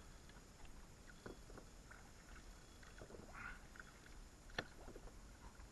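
Near silence with faint, scattered clicks and knocks from the kayak and fishing gear while a hooked fish is being fought; the sharpest click comes about four and a half seconds in.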